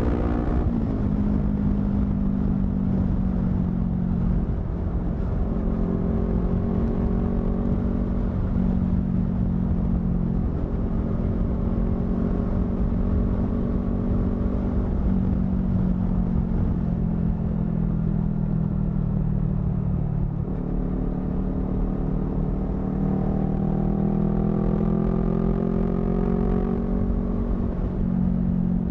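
Honda CBR250RR parallel-twin through a modified aftermarket exhaust, running under way. The engine note holds mostly steady and slowly climbs, dropping in pitch about twenty seconds in and again near the end before rising again, over a low rumble of wind and road noise.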